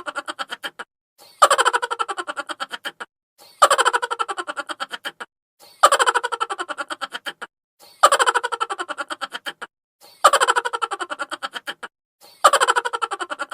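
Chipmunk laughter sound effect: a pitched-up, sped-up laugh, each burst a quick run of "ha" pulses falling in pitch. The same laugh loops about every two seconds, about six times, with a brief gap between repeats.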